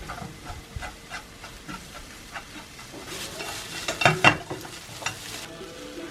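Spatula stirring and scraping crumbled beef and tofu in a frying pan as it sizzles, in short repeated strokes with a louder cluster of scrapes about four seconds in.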